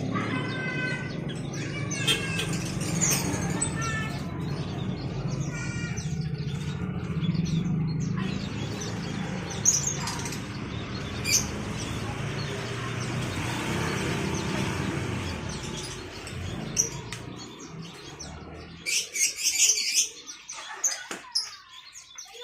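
Caged songbirds chirping and whistling in short repeated calls, with a burst of loud high chirps near the end, over a steady low background rumble that fades out before the chirping burst.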